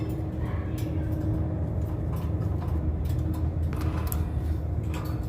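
Light, irregular clicks and ticks from a pet bird working at its cage door, over a steady low rumble.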